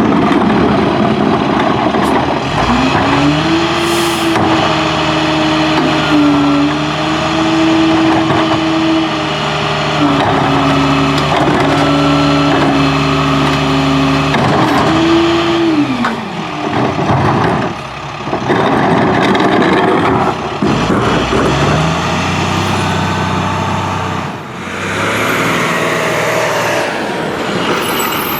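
International garbage truck's diesel engine running loud. It revs up a few seconds in, holds at high speed for about twelve seconds, drops back, then revs up again near the end. A short air hiss comes about four seconds in.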